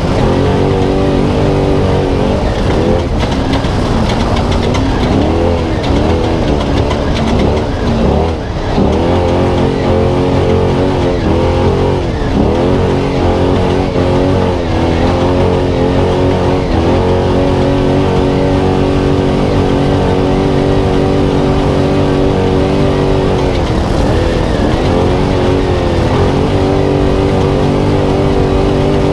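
Spec Trophy Truck's V8 engine running hard under race load. Its pitch dips and climbs back several times as the truck lifts off and shifts.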